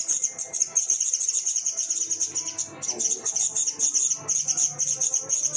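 Black-naped monarch nestlings chirping: a continuous, very high-pitched stream of rapid chirps with hardly a pause.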